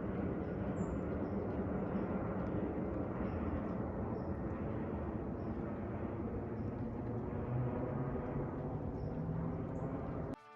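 Airplane flying over, a steady broad rumble that runs unbroken and cuts off abruptly just before the end.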